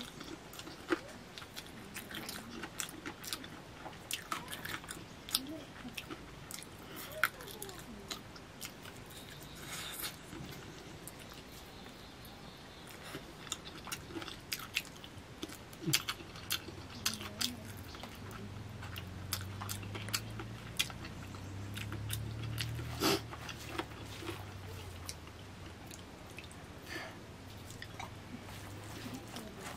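A person eating rice with the fingers from a banana leaf: close-up chewing and mouth sounds, with many small sharp clicks. A low steady hum runs underneath for several seconds in the middle.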